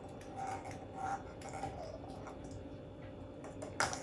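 Faint light taps and clicks of a small plastic toy ball being nudged by an African grey parrot and moving on a tabletop, with a sharper knock near the end.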